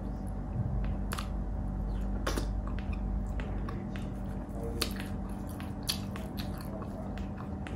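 Close-up eating sounds: chewing, lip smacks and wet mouth clicks of someone eating saucy pork bistek with their hands, scattered irregularly. A steady low hum runs underneath.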